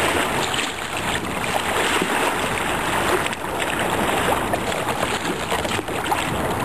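Fast, turbulent river water rushing and splashing around a sea kayak, a steady churning noise.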